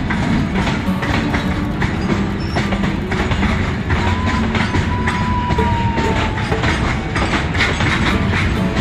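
Passing train: a loud, steady rumble of wheels on rails, with rapid clicks and clatter from the wheels running over the track. Partway through, a thin squeal-like tone slides slightly down in pitch.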